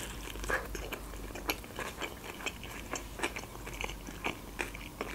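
Close-up eating sounds: a bite into a hot open-faced sandwich on toasted bread, then chewing, heard as many small irregular mouth clicks and ticks.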